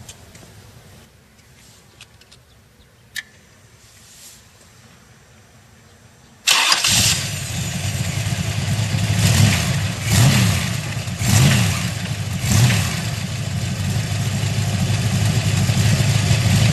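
Boss Hoss motorcycle's 5.7-litre Corvette C3 V8 starting: after a faint low hum and a sharp click, it catches suddenly about six and a half seconds in, is revved four times about a second apart, then settles to a steady idle.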